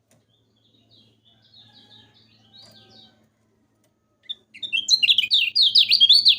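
Kecial kuning songbird singing: soft twittering at first, then, after a short pause, a loud, rapid run of high sweeping chirps.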